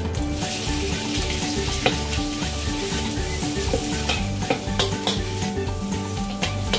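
Raw minced beef sizzling as it hits hot oil in a wok, the hiss starting just under half a second in, while a metal spatula breaks it up and stirs it with repeated scrapes and clicks against the pan.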